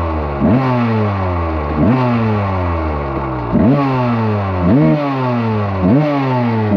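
Dirt bike engine given repeated sharp throttle blips, about six in a few seconds: each rev jumps quickly up in pitch and then winds slowly back down.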